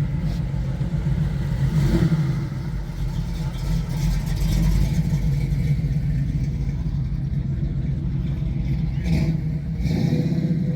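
A car engine running steadily, with a low, even hum of engine tones and small rises in level now and then.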